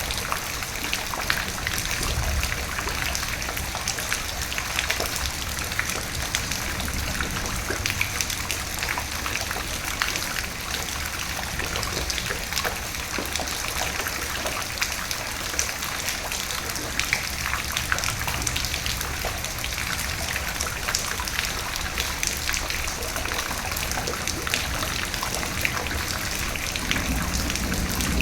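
Steady rain, with many individual drops ticking over a continuous hiss and a low rumble underneath. Near the end a deeper rumble starts to swell as thunder builds.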